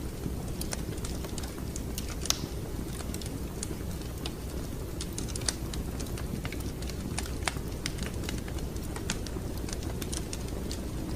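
Wood fire crackling in a fireplace: irregular sharp pops and snaps over a steady low rumble of the flames, with a louder pop about two seconds in and another about five seconds in.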